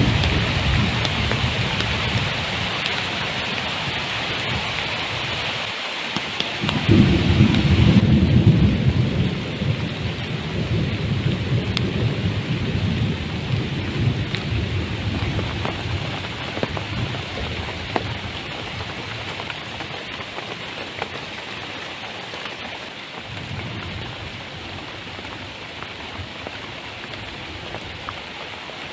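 Heavy tropical rain falling steadily, with a low thunder rumble about seven seconds in that is the loudest moment. The rain then slowly grows quieter.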